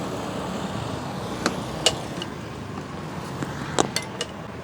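Steady hum of road traffic and a busy food stall, with a few sharp clinks and knocks: one about a second and a half in, another just after, and a quick cluster near the end.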